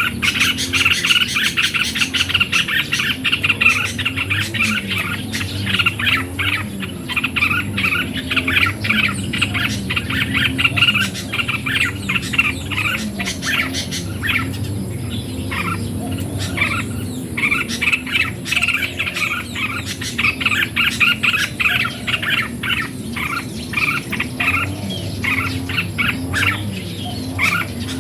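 Red-whiskered bulbuls chirping and calling in quick, overlapping runs from several birds, with only short lulls.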